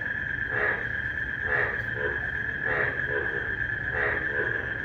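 Frogs calling in a steady rhythm, about one croak a second, often followed by a shorter second note. A continuous high cricket trill runs beneath, over a low steady rumble.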